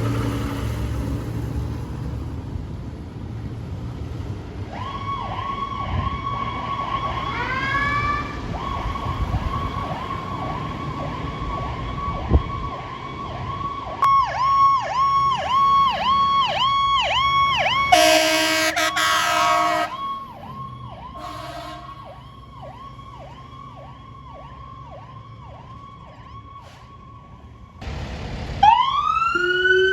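An emergency vehicle's engine passing, then its electronic siren on a fast yelp of about three sweeps a second. A loud horn blast of about two seconds sounds midway, with a shorter one soon after. Near the end a siren wail rises and falls more slowly.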